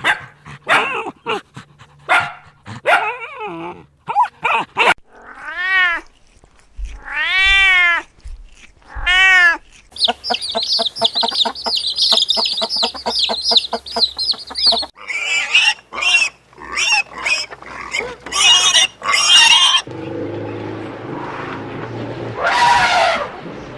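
A run of different animal calls, one after another. Among them is a cat meowing: three drawn-out meows that rise and then fall in pitch, a few seconds in. Quick short calls come before them, and a dense run of high chirping follows.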